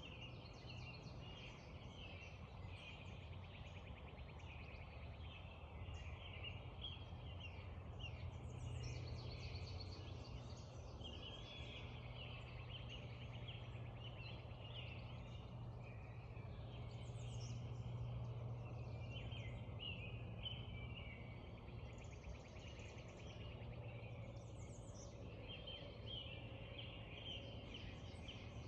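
Dawn chorus of several wild birds singing and calling at once, overlapping songs throughout, over a steady low background rumble.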